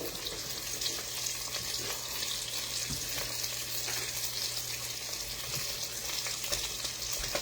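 Food frying in hot oil in a pan: a steady sizzle with a fine crackle, over a low steady hum.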